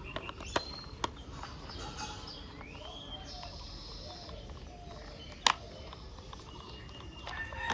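A few sharp clicks and knocks of plastic toy car parts being handled and fitted together, with faint bird chirps in the background.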